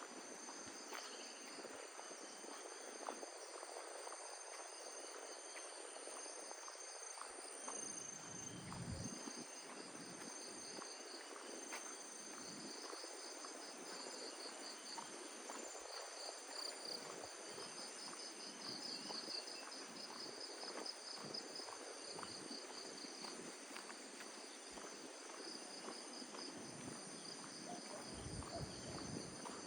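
A chorus of insects calling steadily at high pitch, one of them in a rapid pulsing trill, with soft footsteps on a path beneath.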